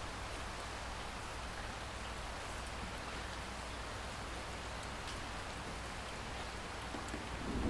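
Steady rain falling, an even hiss with a few individual drops ticking now and then. Near the end a low rumble starts to swell.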